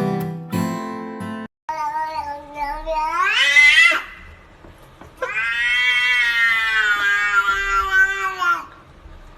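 Acoustic guitar music that cuts off about a second and a half in, then a cat gives two long drawn-out meows. The first rises sharply in pitch over about two seconds; the second is held at a steady pitch for about three and a half seconds.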